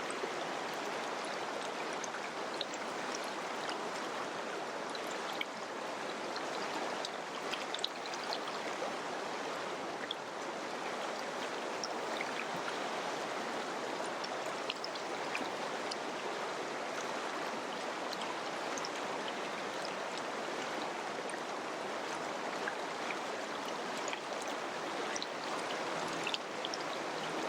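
Mountain river flowing in a steady rush, with many small splashes and trickles scattered through it.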